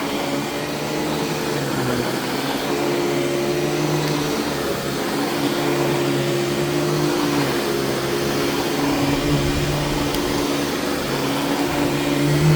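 Royal Deluxe Power Team vacuum cleaner with its power nozzle running steadily at just above medium power while being pushed over carpet. Its hum shifts a little in pitch now and then.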